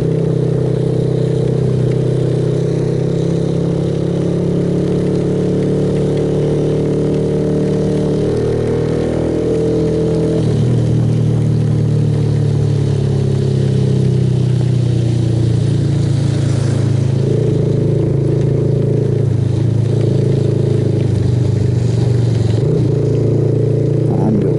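Suzuki Yes motorcycle's single-cylinder engine running steadily under way, its pitch shifting about ten seconds in, over constant wind and road noise.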